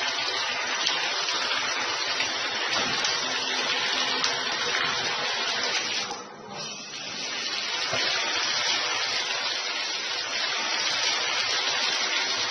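Running water, a steady rush that dips briefly about six seconds in.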